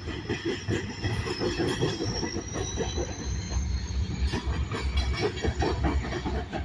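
Freight cars rolling past at track side, with a rumble and irregular clatter of wheels over the rails. Steel wheels squeal against the rail in a thin, high tone that slowly rises in pitch.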